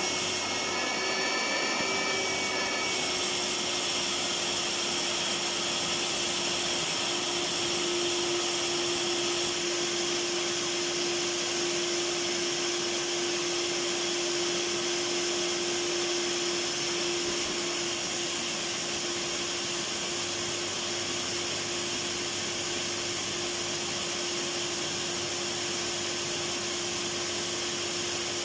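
Electric vacuum cleaner running steadily: a constant airy hiss over a steady hum, with a slight change in tone about three seconds in.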